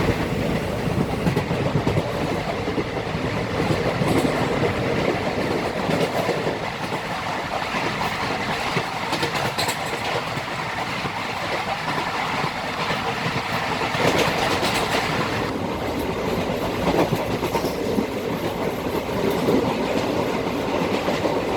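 A moving train: a steady rumble with the clatter of wheels over the rails. It begins abruptly and keeps an even level throughout.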